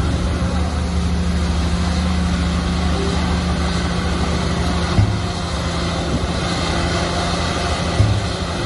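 Shantui bulldozer's diesel engine running steadily under load, with a short thump about five seconds in and another near the end.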